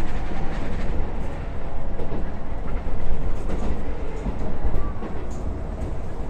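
Keisei 3700 series electric train running along the line, heard from inside the car: a steady rumble of wheels on rail with a few faint clicks.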